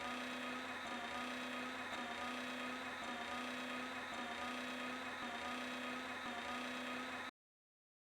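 Steady electric hum with a held low tone over a hiss, cutting off abruptly near the end.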